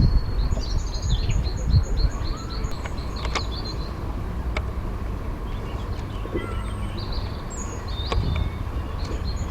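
Songbirds singing: one gives a run of evenly repeated high notes, about three a second, for the first few seconds and starts again near the end, with scattered shorter chirps in between, over a steady low rumble.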